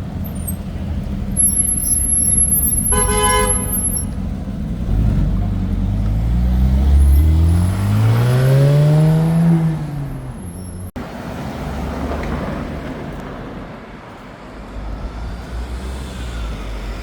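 A car horn toots briefly about three seconds in, then a car engine revs up loudly, its note climbing for several seconds as it accelerates away before dropping off; steady street traffic rumble underneath.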